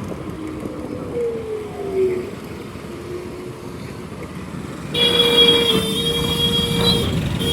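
Road traffic noise, then about five seconds in a vehicle horn sounds loudly in a steady blast of about two seconds, with a second blast starting near the end.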